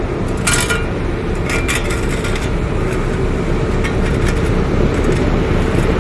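Heavy vehicle and machinery engines running steadily, with a few short sharp clanks in the first two and a half seconds.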